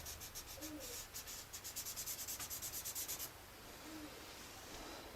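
Drawing tool rubbing back and forth across paper while shading: faint quick scratchy strokes, about six a second, that stop a little over three seconds in.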